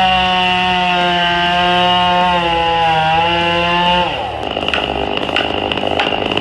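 Two-stroke chainsaw held at full throttle, a loud steady high-revving whine. About four seconds in, the pitch drops and the sound turns rougher, with a few sharp cracks.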